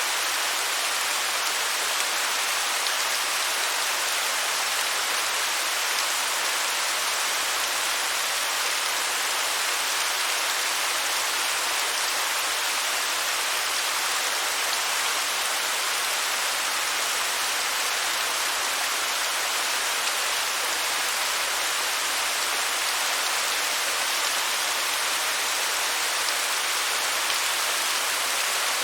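Waterfall: a steady, even rush of falling water, mostly a bright hiss with little deep rumble and no change in level.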